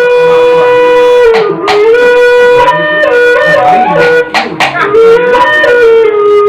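Wayang Sasak gamelan music. A wind instrument holds a slowly stepping melody, with a few sharp percussion strokes.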